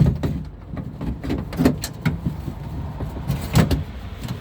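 Irregular knocks and rattles of a car door latch assembly and its linkage rod being worked into place behind the window run channel inside the door shell, with sharper clunks at the start, about a second and a half in, and near the end.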